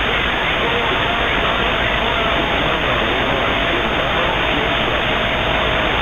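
Radio receiver static, a steady hiss with faint, buried voices under it. A thin steady whistle tone runs through most of it and stops shortly before the end.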